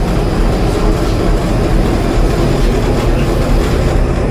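A cargo ship's main diesel engine running steadily at full (4/4) load during a sea trial, a loud, even drone with no let-up.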